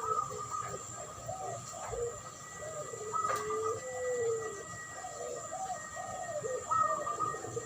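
Doves cooing in a duet: a puter pelung (domestic ring-necked dove) and a derkuku (spotted dove), with repeated short rounded coos and a few longer held notes.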